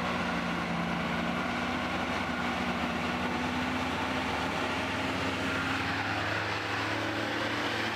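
Heavy-duty truck's engine running steadily, an even low hum that holds the same level throughout.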